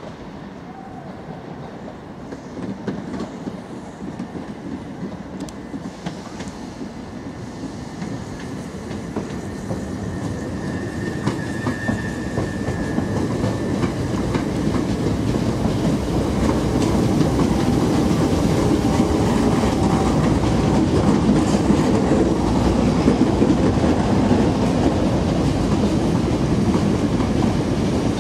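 Electric multiple-unit trains running through the station, wheels clicking over rail joints and points. The sound grows steadily louder over the first half as a Southern Class 377 Electrostar runs along the platform close by, then holds at a steady rumble.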